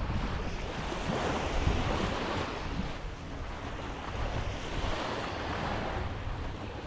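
Waves washing onto the beach in a steady rush, with wind buffeting the microphone in uneven low gusts.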